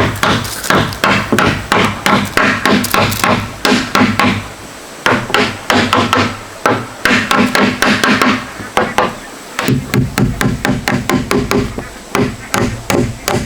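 Hammer striking wood in quick, evenly spaced blows, about three or four a second, in three runs with short pauses about five and nine and a half seconds in.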